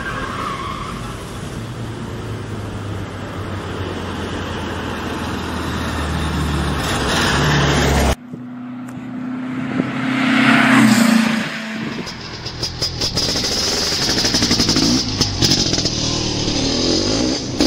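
The Volksrod's engine running and growing louder over several seconds. After an abrupt cut, a vehicle drives past, loudest about three seconds later and then fading.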